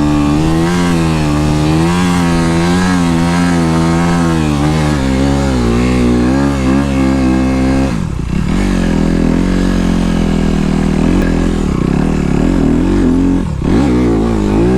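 Honda CRF250R dirt bike's 250cc four-stroke single-cylinder engine under load, revs rising and falling as it rides up through powder snow. About eight seconds in the revs drop sharply, then climb again; the bike is struggling a bit in the powder.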